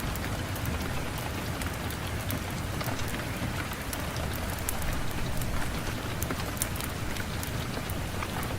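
Steady rain falling on a hard surface, with scattered small sharp ticks of drops or crackles throughout.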